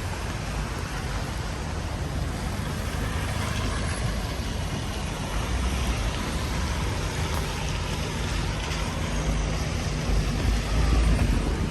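Steady hiss of rain over the low rumble of road traffic, with motor vehicles running past; the traffic grows louder near the end.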